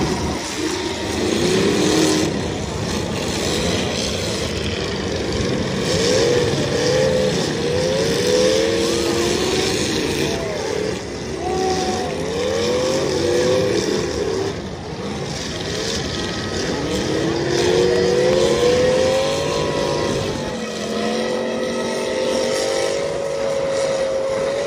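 Several demolition derby cars' engines revving up and down at once, their pitches rising and falling as they drive around the arena. Near the end one engine holds a steady high rev.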